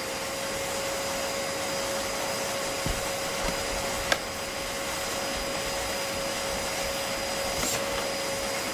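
Vacuum cleaner running steadily: a constant rush of air with a steady whine over it, and a single sharp click about four seconds in.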